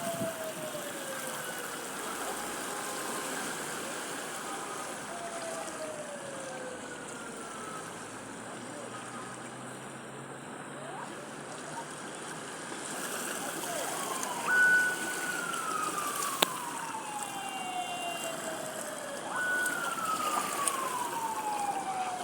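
Steady wash of sea waves on a beach, with several long siren-like tones over it. Each tone slides slowly downward. The two loudest start about two-thirds of the way in and near the end, each jumping up high and then falling over several seconds.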